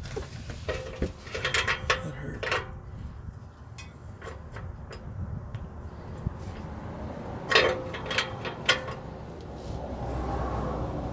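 Metal hand tools clinking, knocking and scraping against the car's underside, in two short clusters of clicks with a brief metallic ring, over a low steady rumble.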